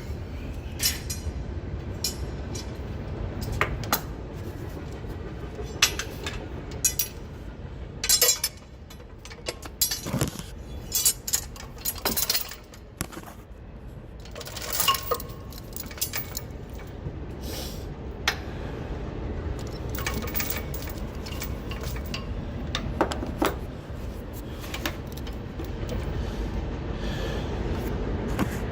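Steel tow chain links clinking and clanking as the chain is handled and hooked under a truck, in irregular bursts of sharp metallic knocks with brief ringing, busiest in the middle. A steady low rumble runs underneath.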